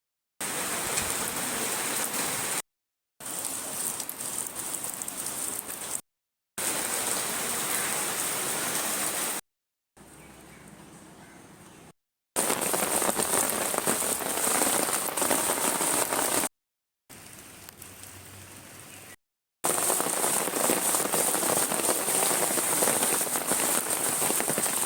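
Rain falling steadily, with the patter of individual drops, in a run of short clips broken by brief silent gaps; two of the stretches are much quieter than the rest.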